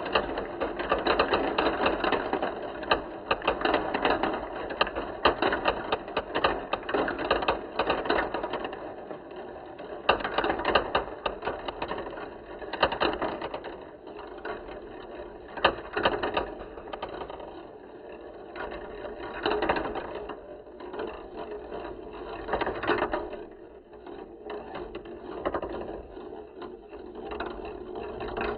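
Many marbles rolling and clicking down a marble-run slope track, a dense rattling clatter that thins over the second half to scattered, separate clicks.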